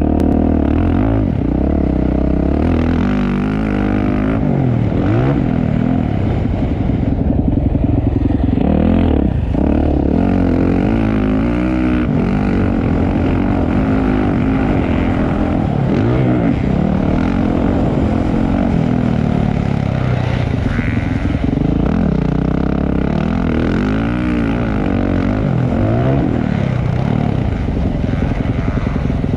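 Motocross dirt bike engines racing, the revs rising and falling again and again as the throttle is worked and the gears change.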